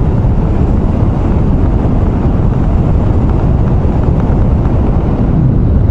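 Motorcycle riding at speed: steady wind rushing over the helmet microphone, with engine and tyre noise beneath it.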